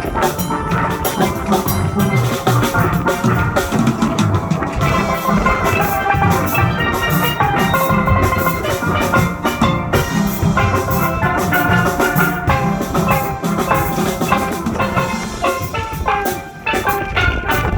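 Steel band playing: many quick steelpan notes over drums.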